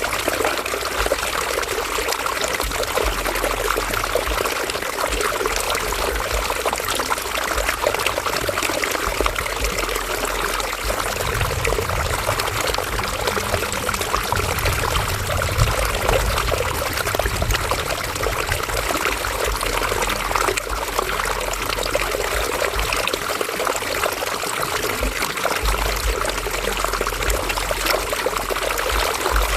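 River water flowing and trickling over rocks, a steady splashing rush with a low rumble that swells and fades.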